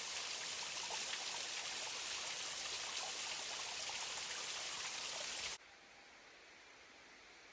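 Steady rush of flowing stream water, which cuts off suddenly about five and a half seconds in, leaving only a faint hiss.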